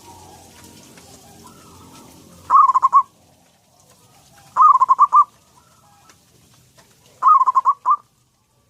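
Zebra dove (perkutut) cooing: three short phrases of quick, rolling notes, about two seconds apart.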